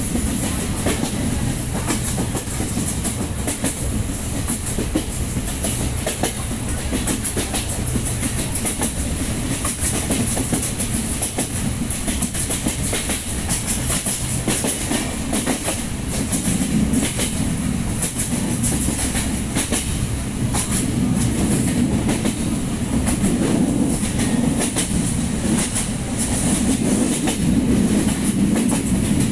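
Passenger train running at speed, its wheels clattering over the rail joints over a steady rumble, heard from inside the carriage. The rumble grows a little louder about halfway through.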